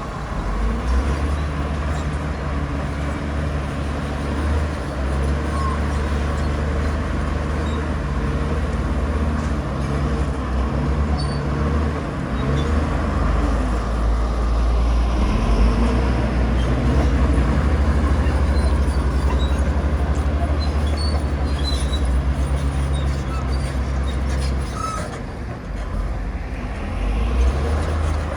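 Heavy diesel earthmoving machinery running steadily: a deep engine drone with a strong low hum, dipping briefly a few seconds before the end.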